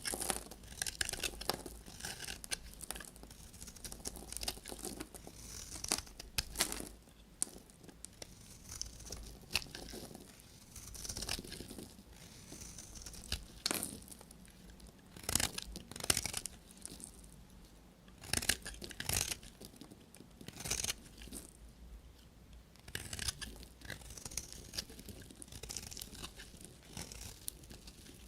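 A knife cutting through bars of soap: a run of irregular crunchy, scraping strokes with a few sharper cracks between them.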